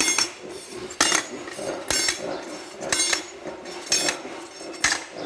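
Hammer striking metal, about one blow a second, each blow leaving a short metallic ring.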